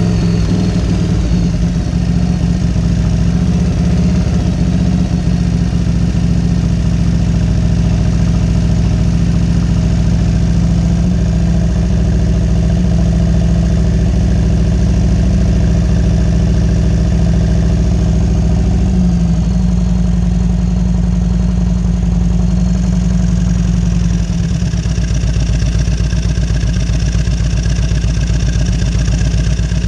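Fuel-injected Harley-Davidson Road King V-twin running steadily, its engine note changing about 19 seconds in and again around 24 seconds. The bike has a fault that makes its engine speed rise on its own.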